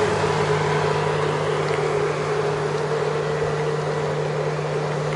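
A heavily loaded motorboat running past close by: a steady engine drone over the rush of its hull through the water, easing a little as it goes.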